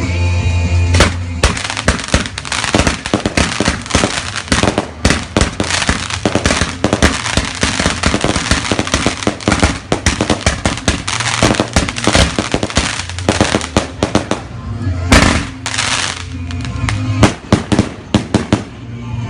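Fireworks going off in a rapid, dense barrage of bangs and crackles, heaviest about a second in and again near the end, with music underneath.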